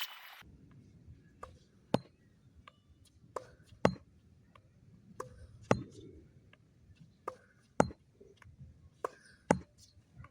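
Tennis rally: a tennis ball being struck with rackets and bouncing on the court, sharp pops coming in pairs about half a second apart, a louder hit roughly every two seconds.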